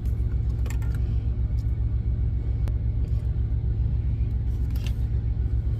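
Idling semi-truck diesel engine, a steady low rumble with a fast even pulse, heard from inside the cab, with a few faint light clicks on top.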